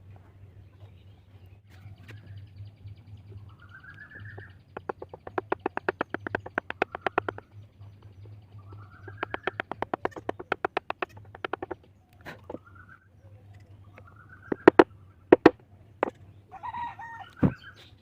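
A bird calling twice, each call a rising note that breaks into a fast run of short repeated notes. Near the end come a few sharp, loud knocks, over a steady low electrical hum.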